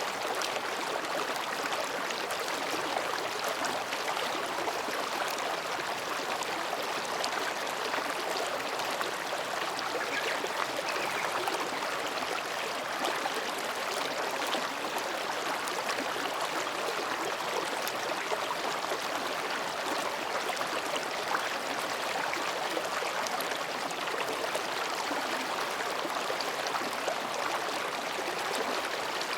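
Mountain stream babbling over and between rocks: a steady, even rush of flowing water.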